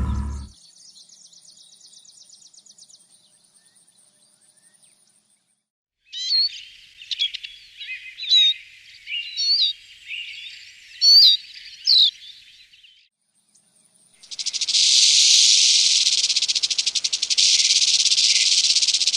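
Birds calling: a series of separate whistled calls with quick pitch sweeps, after faint high chirping. About two-thirds of the way through, a loud, continuous, fast-pulsing high buzz or trill starts and lasts to the end.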